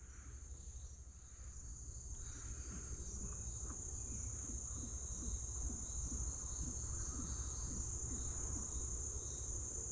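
Insects droning steadily at a high pitch, a continuous chorus of crickets or cicadas.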